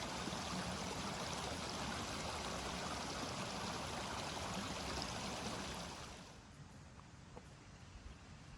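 A steady rush of water that fades down about six seconds in, leaving a faint background with a few soft ticks.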